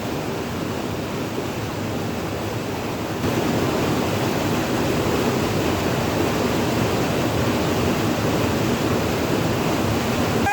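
Waterfall: a steady rush of falling water, becoming a little louder about three seconds in.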